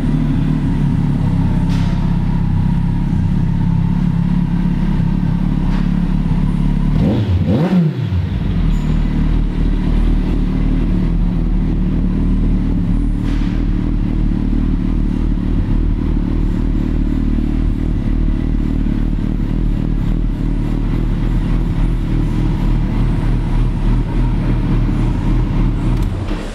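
2009 Kawasaki Concours 1400's inline-four engine idling with a nice rumble through a Two Brothers exhaust while warming up. It is blipped once about seven seconds in, the pitch rising and falling back, then it settles to a steady idle until it stops near the end.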